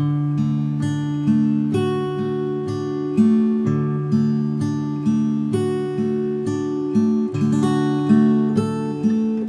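Acoustic guitar playing a slow, gentle fingerpicked arpeggio, about two plucked notes a second over held bass notes; the piece begins suddenly right at the start.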